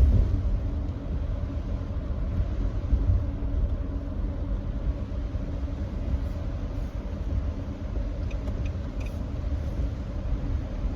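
Nissan Note e-POWER cruising at steady speed on a wet expressway: a continuous low rumble of road and tyre noise with a hiss over it. A few faint ticks come near the end.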